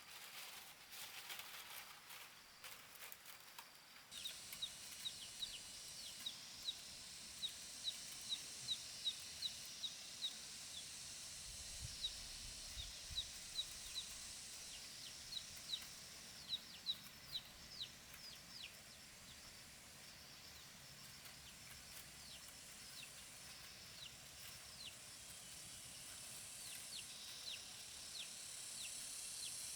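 A bird gives short, high chirps that fall in pitch, one or two a second. They start about four seconds in and grow sparser in the second half, over a steady high hiss.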